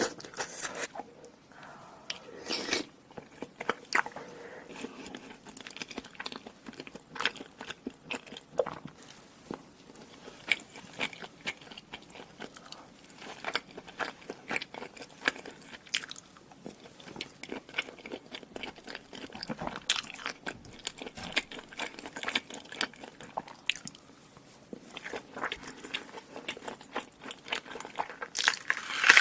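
Close-miked eating: crunchy bites and chewing that make many short, irregular crunching clicks, with a louder burst of crunching near the end.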